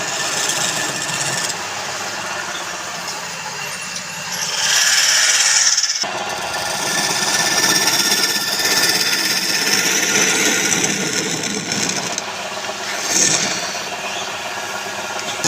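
Power tool cutting and scraping palm wood, a continuous rasping noise that swells louder in stretches and changes abruptly about six seconds in.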